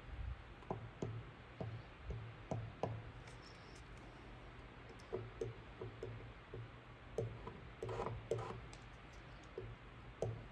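Irregular light clicks and taps of hard plastic body panels and a plastic-welding tool being handled, with a busier cluster of knocks about eight seconds in, over a steady low hum.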